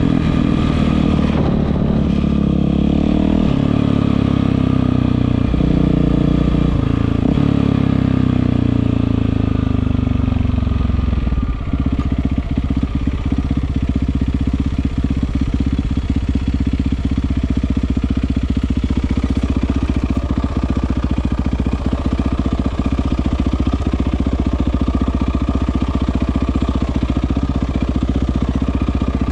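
Yamaha WR450F single-cylinder four-stroke engine running through an Akrapovič exhaust, its pitch rising and falling for about the first ten seconds, then settling to a steady idle.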